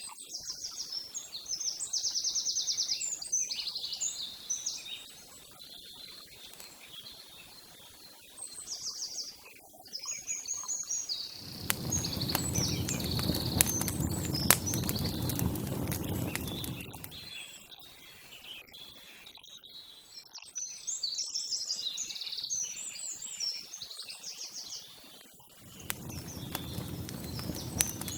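Small birds chirping and singing outdoors. About halfway through, a louder noise with scattered clicks sets in for about five seconds, and it comes back near the end.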